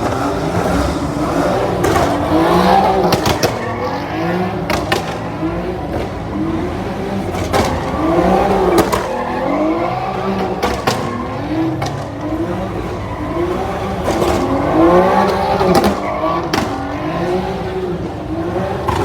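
High-performance car engine revved hard again and again, its pitch climbing and falling about once a second, with a few sharp cracks in between.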